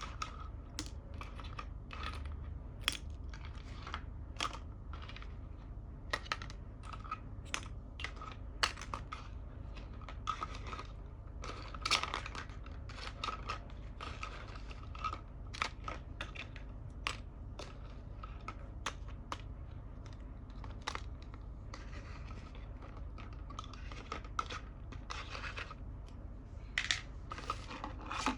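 Small plastic toy pieces handled and set down on a glass surface, making irregular sharp clicks and taps, a few louder knocks among them.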